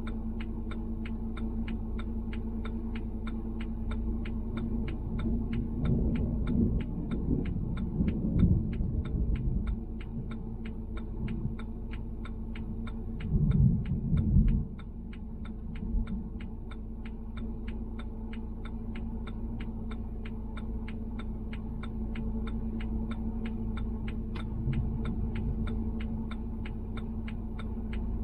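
A steady hum with a fast, even ticking, about two to three clicks a second, throughout. Louder low rumbles swell twice, about a quarter of the way in and again near the halfway point.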